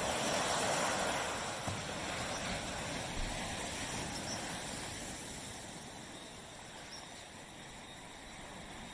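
Sea waves washing onto a beach: a wave's surge is loudest in the first second or so, then the wash slowly fades over several seconds.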